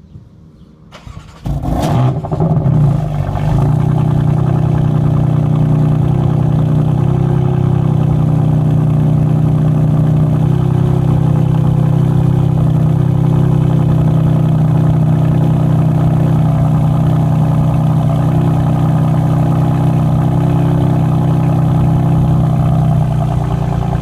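BMW M3 F80's twin-turbo 3.0-litre inline-six started from cold: it catches about a second and a half in, flares up loudly, then settles within a couple of seconds into a steady idle.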